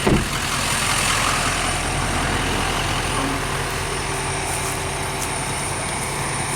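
Engine of heavy farm equipment running steadily, with a brief thump right at the start.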